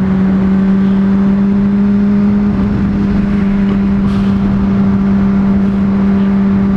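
Honda CBR600RR inline-four engine running at a steady cruise of about 50 mph, a constant drone that holds one pitch, under rushing wind noise.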